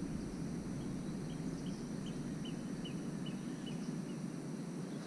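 Steady low outdoor background noise on the water, with a bird calling a run of about eight short, evenly spaced high notes, about two or three a second and falling slightly in pitch, through the middle.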